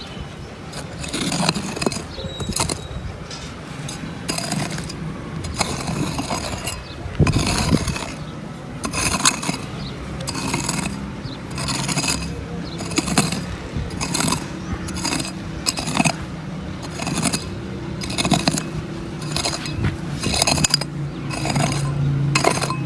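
Repeated scraping strokes, roughly one a second, with a low steady hum growing stronger near the end.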